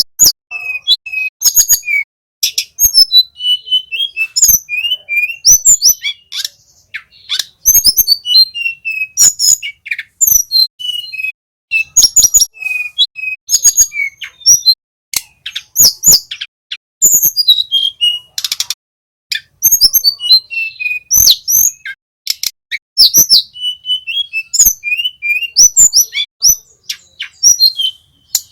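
Male tledekan gunung songbird singing a fast, loud, varied song of chirps, trills and sharp clicking notes in bursts with short pauses between them.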